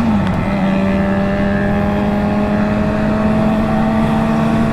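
Motorcycle engine running at a steady cruise, heard from the rider's seat with steady wind and road rush. Its note dips in pitch just after the start, then holds steady and creeps slowly upward.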